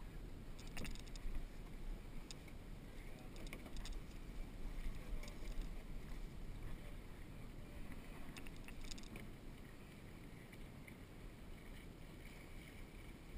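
Wind and water noise aboard a small catboat under sail, a steady low rush with a few faint knocks.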